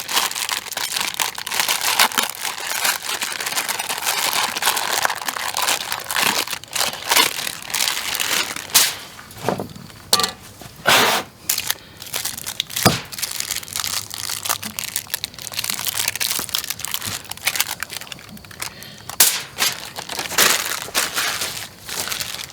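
Irregular crinkling and crunching with scattered sharp clicks and knocks, from handling food, wrappings and utensils while preparing empanadas.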